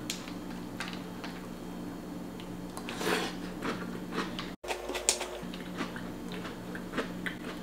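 Chewing a mouthful of whole grain oat Cheerios in milk, with scattered small clicks and soft crunches.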